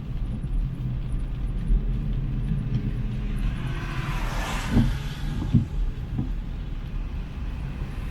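Street traffic with a steady low rumble. A car passes about four to five seconds in, its tyre hiss swelling and fading, with a couple of short thumps.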